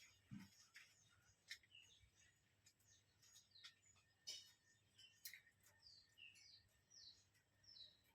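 Small birds chirping faintly: many short, high notes, several of them quick downward slurs, a few each second.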